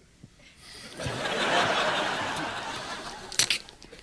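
Studio audience laughing, swelling about a second in and fading away. Near the end come a few short, sharp noisy bursts.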